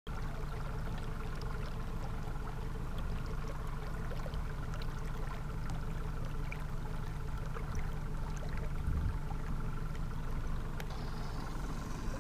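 A boat motor running steadily on the water, with a low rumble and a faint constant hum.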